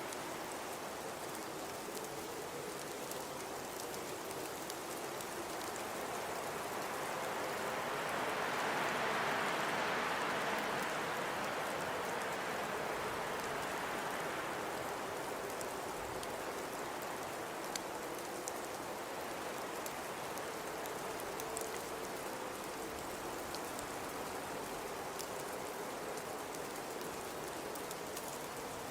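Blizzard wind blowing steadily in a hissing rush. A gust swells about a third of the way in and dies back, with a faint low whistle running under it.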